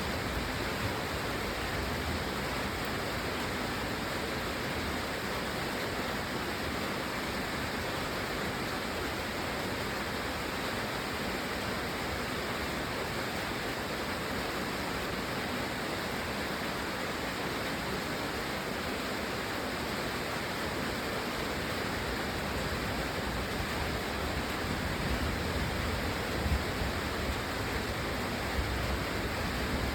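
Steady, even rainfall: a continuous hiss of rain with no letup.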